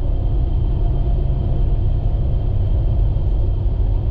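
Steady low rumble of a moving vehicle heard from inside the cabin: engine and tyre noise while driving on the highway.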